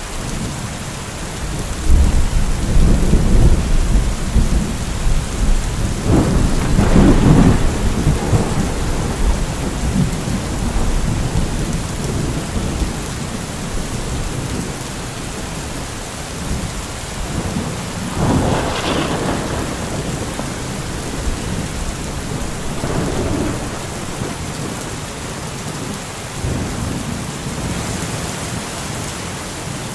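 Steady rain with thunder: a low rumble rolls in about two seconds in and swells over the next several seconds, then another, sharper peal comes a little past the middle before dying away.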